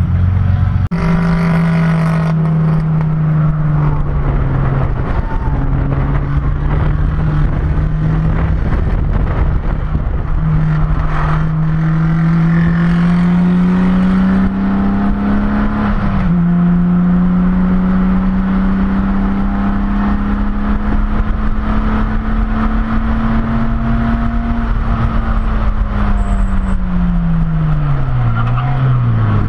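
Race car engine heard from inside the cabin, pulling away and accelerating through the gears. Its pitch climbs, drops sharply at an upshift about sixteen seconds in, holds steady at speed, then falls away near the end as the car slows.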